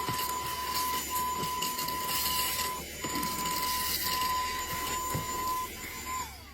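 Car vacuum cleaner's motor running with a steady high whine over a rushing hiss; about six seconds in, the whine falls in pitch and the sound dies away as it is switched off and winds down.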